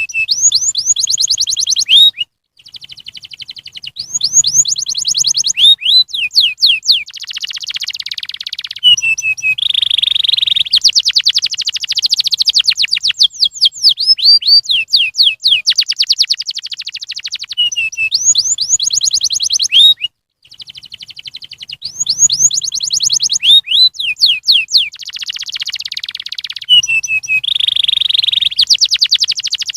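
Domestic canary singing a long song of rapid trills, one repeated note giving way to another every second or two, with brief breaks about two seconds in and again about twenty seconds in. It is a lure song played to set other canaries singing.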